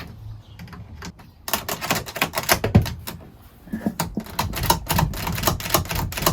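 Rapid, irregular clicking and clattering of small hard parts, starting about a second and a half in, with a short pause near the middle.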